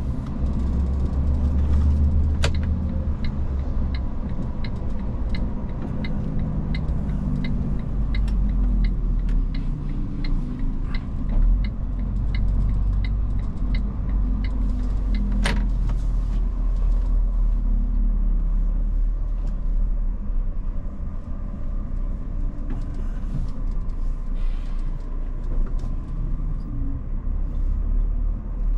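Iveco S-Way truck's diesel engine and road noise heard steadily from inside the cab while driving. A regular ticking, about two a second, runs for about ten seconds, and two sharp clicks stand out.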